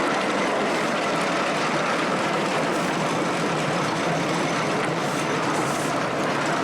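Miniature railway train running along its track, a steady, even running noise with no distinct beats.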